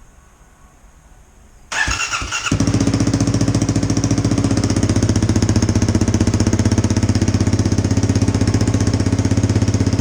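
Kawasaki KLX250's single-cylinder four-stroke engine cranked on the starter, catching about two and a half seconds in and settling into a steady, pulsing idle through an FMF Q4 slip-on exhaust. The mid pipe is not sealed, so the exhaust leaks and makes a racket.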